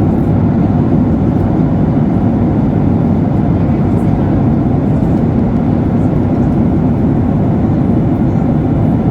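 Steady cabin noise of a Ryanair Boeing 737-8200 (737 MAX), a constant low roar of its CFM LEAP-1B engines and airflow heard from inside the cabin.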